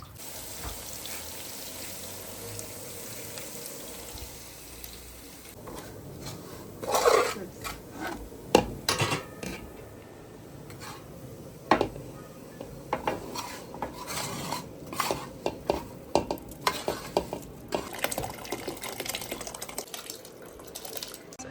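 Steady running water for about the first six seconds, then metal utensils clinking and scraping against a cooking pot as food is stirred and dished, with a string of sharp clinks.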